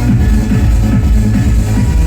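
Loud electronic dance music from a DJ set played over a club sound system, with a heavy bass line carrying most of the energy.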